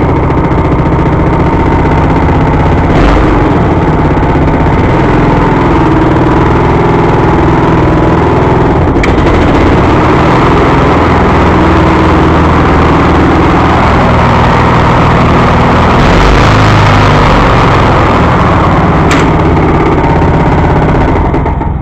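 Honda mower engine running loudly and steadily, with three sharp clicks along the way.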